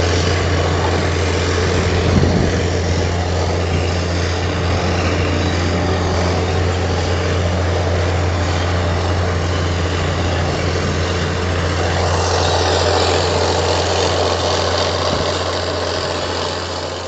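Heavy diesel earthmoving machinery running steadily with a deep, even hum, a single knock about two seconds in, and a fade-out at the very end.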